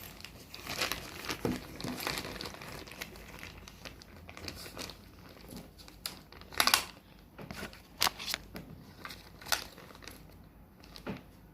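Packaging being crinkled and crumpled in the hands: irregular sharp crackles, loudest in a brief flurry a little past halfway, then sparser.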